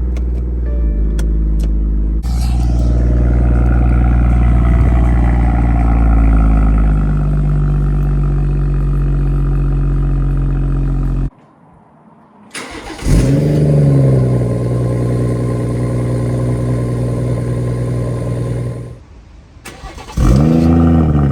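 BMW M140i's B58 turbocharged straight-six starting up through its exhaust: each start flares in revs and then settles into a steady fast idle. Twice the sound breaks off for a moment and the engine starts again, once about 13 seconds in and once near the end.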